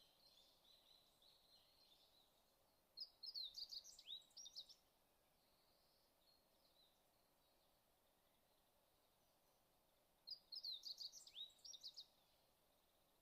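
A songbird singing two similar short, quick chirping phrases about seven seconds apart, with faint twittering near the start, over a faint steady hiss.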